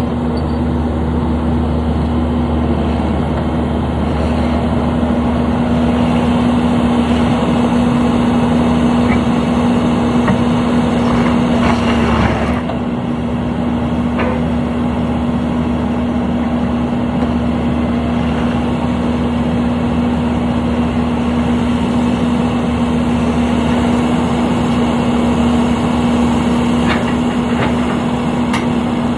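A construction machine's engine running steadily, a constant droning hum with a strong low rumble. The sound briefly dips and shifts about twelve seconds in.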